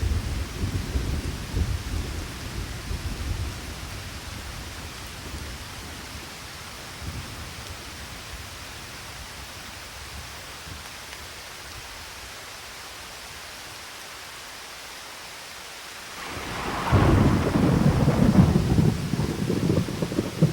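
Steady rain during a thunderstorm. A low thunder rumble fades over the first few seconds, and about sixteen seconds in a loud thunderclap breaks and rolls on to the end.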